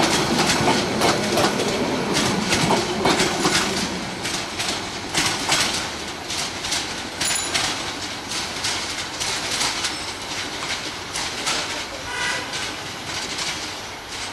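Bangladesh Railway intercity passenger coaches rolling past, their wheels clicking over the rail joints in a steady clickety-clack. It is loudest for the first few seconds, then fades as the end of the train draws away.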